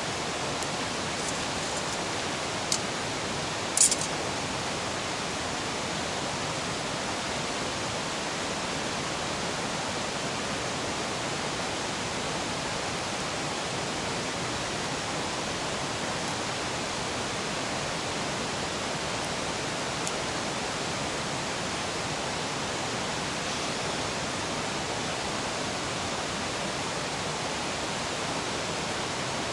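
River rushing in a steady, even wash of noise. Two short sharp clicks come about three and four seconds in.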